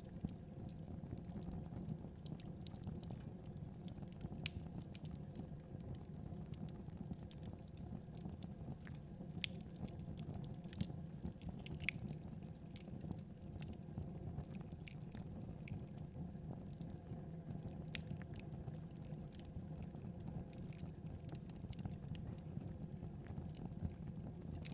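Wood fire burning, with a steady low rumble and sparse, irregular sharp crackles and pops.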